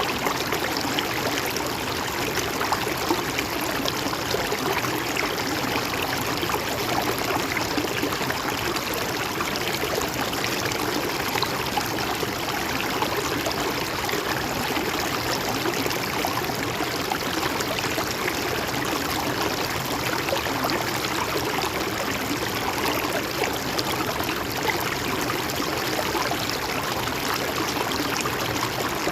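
River or stream water flowing and babbling over rocks, a steady, even rush with fine gurgling texture throughout.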